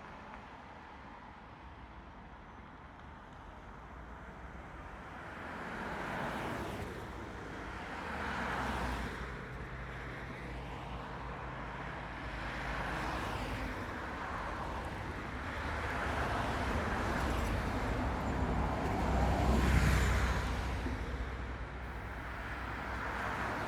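Road traffic: cars passing one after another over a steady low traffic hum, each pass swelling up and fading, the loudest about twenty seconds in.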